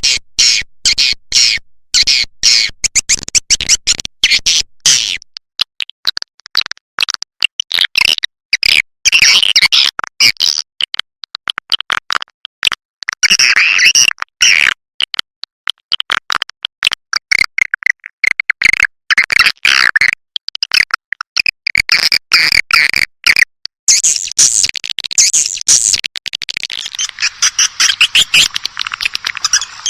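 Swiftlet call track used as a lure in swiftlet farming: rapid, dense twittering chirps and clicks of edible-nest swiftlets, played to draw the birds in to roost and nest. In the last few seconds the calls merge into a thicker, unbroken chatter.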